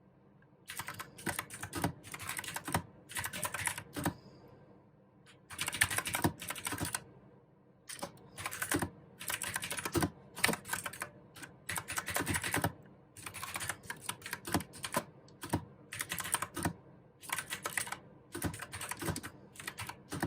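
Typing on a mechanical keyboard with clicky blue switches, fast runs of keystrokes broken by short pauses, with a longer pause about four seconds in.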